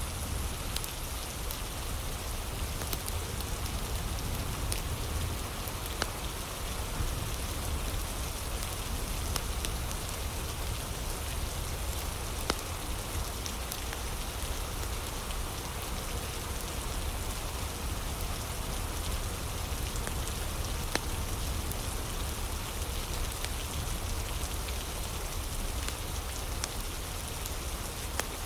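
Steady rain falling, a continuous hiss with a deep low rumble, with a fire crackling now and then in short sharp snaps.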